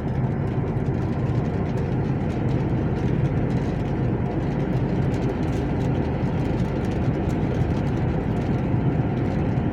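Steady engine drone and tyre and road noise heard inside the cab of a truck driving along at a constant pace.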